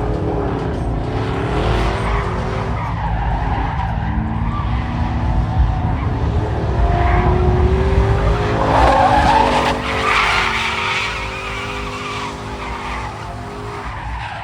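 Car tires squealing over a loud, continuous engine rumble. The squeal wavers up and down in pitch and is loudest about nine seconds in.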